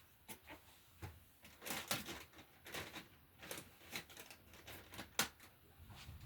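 Irregular light clicks, taps and rustles of handling and movement, with a sharper tap about five seconds in.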